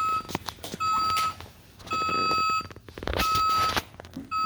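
Toy garbage truck's electronic beeper sounding a steady, even tone in beeps of about half a second, a little faster than one per second, like a reversing warning.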